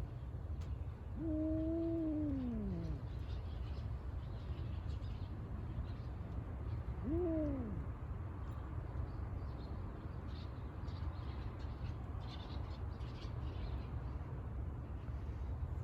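Cat meowing twice: a long, drawn-out low yowl about a second in that holds its pitch and then falls, and a shorter meow about seven seconds in that rises and falls. A steady low rumble runs underneath, with faint high chirping.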